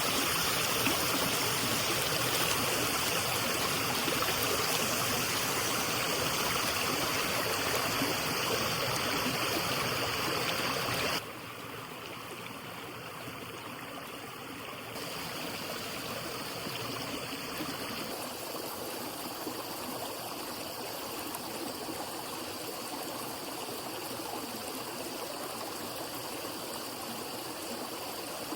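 Steady rushing of water flowing in a stream. About eleven seconds in it drops suddenly to a quieter, softer rush, and shifts slightly again a few seconds later.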